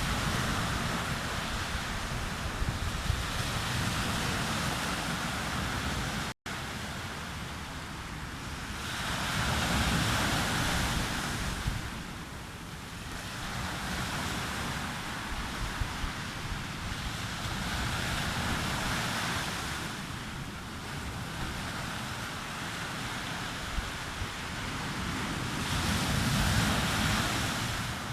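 Sea waves breaking on a beach, the surf swelling and washing in about every eight seconds, with wind buffeting the microphone.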